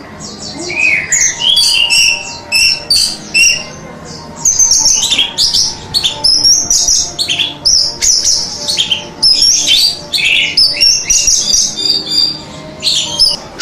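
Orange-headed thrush (anis merah) singing a fast, varied song of short whistled notes and quick slurred glides. The phrases follow one another several times a second and run almost without a break from about four seconds in.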